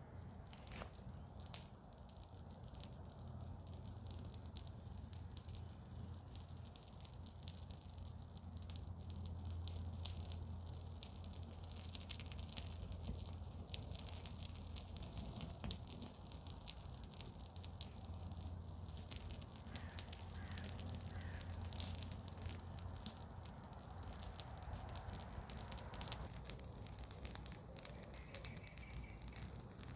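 Garden-waste bonfire crackling with many irregular sharp pops over a steady low rumble. Faint bird calls come in about twenty seconds in and again near the end.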